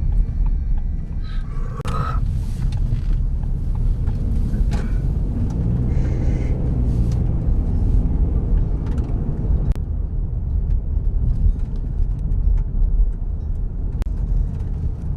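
Car road noise heard from inside the cabin while driving: a steady low rumble of engine and tyres.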